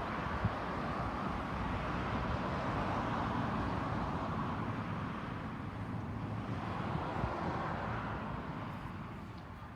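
Distant aircraft engines running at the airport: a steady rush that dies away near the end.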